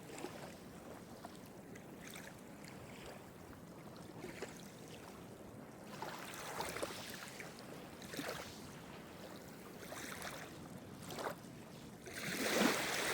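Small Mediterranean sea waves washing in and splashing against the shore, with a fresh splash every second or two over a steady hiss of water. The largest wash comes near the end.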